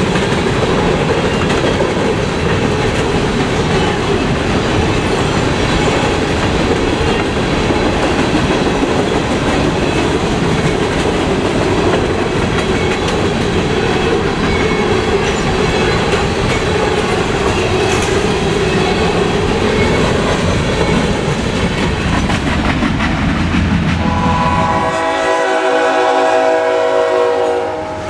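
Freight train passing close by, a steady rumble and clatter of wheels on rail joints. Near the end the rumble drops away and a locomotive air horn sounds for a few seconds.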